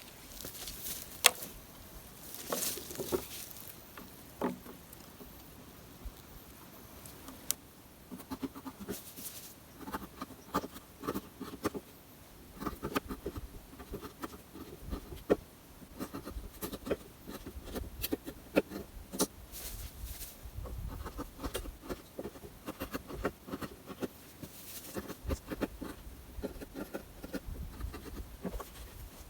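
Irregular rustling, snapping and knocking of dry sticks and straw being handled, with sharp cracks scattered throughout.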